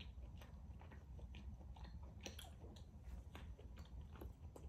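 A person chewing rare beef tenderloin, heard as faint, irregular wet mouth clicks.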